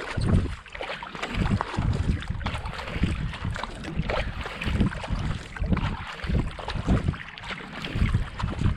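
Kayak paddle strokes at racing pace, the blades splashing into and out of the water in a steady rhythm of about two a second, with wind buffeting the microphone.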